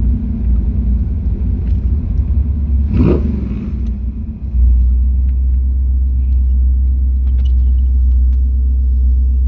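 Low rumble of a car's engine and tyres heard from inside the vehicle as it rolls slowly in. About four and a half seconds in, the rumble turns into a steadier, louder low drone, with a brief louder sound just before.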